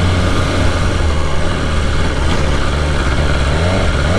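BMW S1000RR's inline-four engine running while the bike is ridden slowly, with an engine-control fault showing, under a steady low rumble of wind on the microphone.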